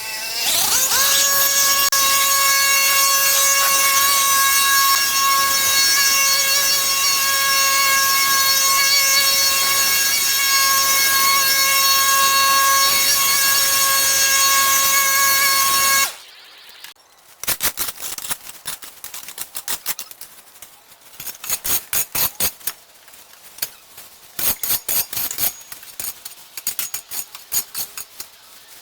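An electric power tool's motor spins up to a steady high whine, runs for about sixteen seconds and stops abruptly. It is followed by irregular clicks and scrapes.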